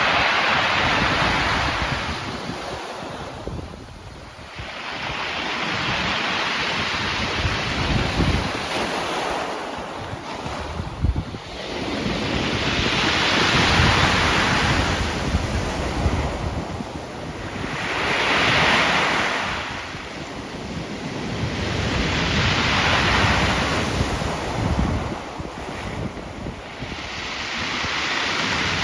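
Sea waves breaking on the shore, each swell of surf rising and falling away roughly every five seconds, with wind rumbling on the microphone.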